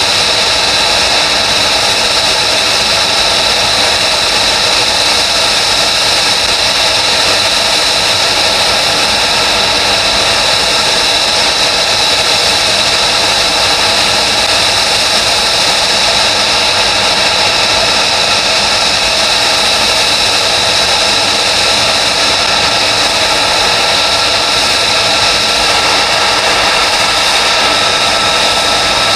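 F-35B's F135 turbofan engine running steadily on the ground: a loud, even rush of jet noise with a steady high whine.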